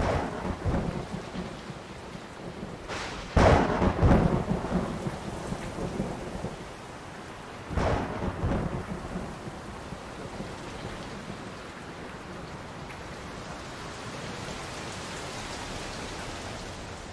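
Thunderstorm: steady rain with thunder, a loud crack and rumble about three seconds in and another about eight seconds in.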